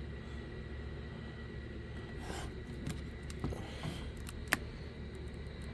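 Light clicks and rustles of a fireworks shell box being handled, with one sharper click about four and a half seconds in, over a steady low hum.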